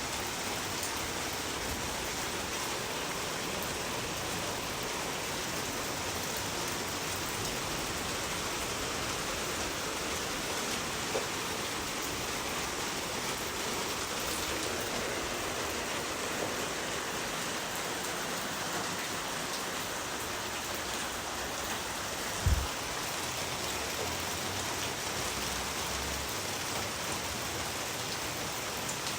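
Steady rain falling, an even hiss of many drops, with a brief low thump about two-thirds of the way through.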